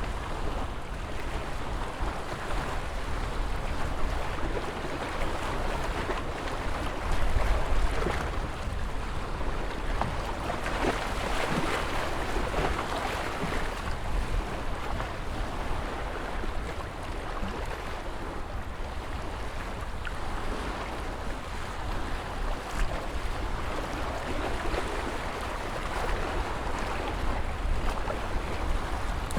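Ocean waves washing in continuously over a deep low rumble, one wave swelling louder about halfway through.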